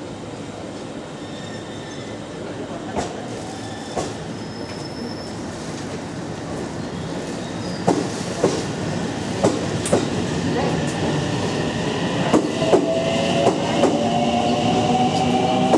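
A JR 313 series electric train pulls away and picks up speed. Its wheels click over the rail joints, at first a second or more apart and then closer together, and the sound gets louder. From about two-thirds of the way through, the traction motors whine, slowly rising in pitch as the train accelerates.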